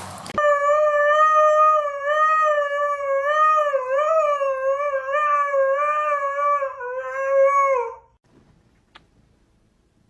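A dog howling in one long, unbroken note with a wavering pitch for about eight seconds, dropping at the end before it stops.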